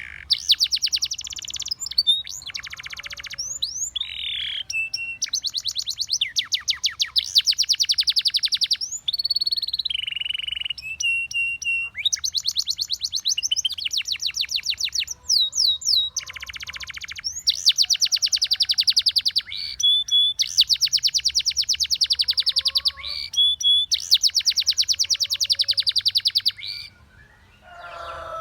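A Russian singing canary singing a long, continuous song of fast, high trills and rolls, broken by short steady whistled notes. It pauses briefly near the end.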